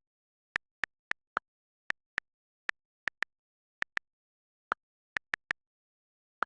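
An irregular series of short, sharp clicks, about fifteen in all, several coming in quick pairs, with dead silence between them.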